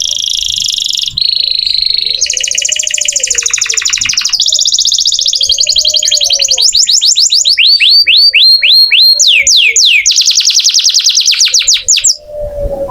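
Domestic canary singing continuously: fast trills of rapidly repeated notes that switch to a new trill every second or two, with a run of quick falling whistled sweeps in the latter half, then stopping abruptly near the end.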